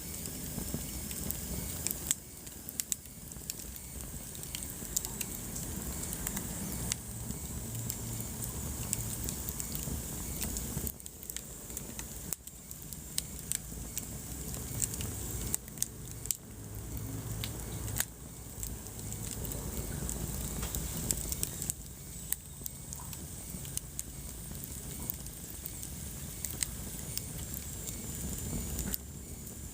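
Wood fire burning in a fireplace, crackling with frequent sharp pops over a low rumble of the flames.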